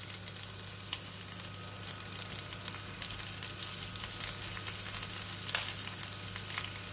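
Garlic slices, dried shrimp and a flat patty of belacan (shrimp paste) frying in a little oil in a stainless steel wok: a steady fine sizzle and crackle. A few light taps and scrapes come from a spoon and fork spreading the shrimp in the pan.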